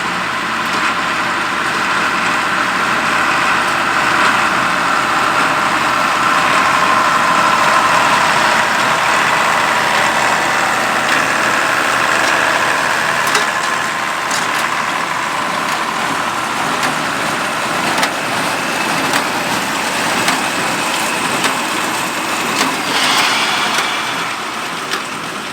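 Allis-Chalmers 200 tractor's turbocharged six-cylinder diesel running steadily at work, with a few sharp knocks scattered through it.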